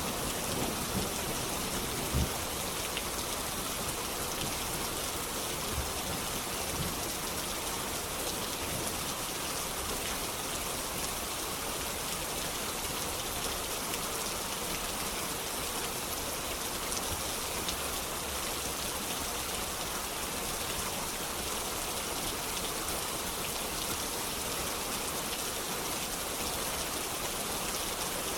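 Steady rain falling, an even hiss of drops on a surface, with a few isolated pops in the first seven seconds.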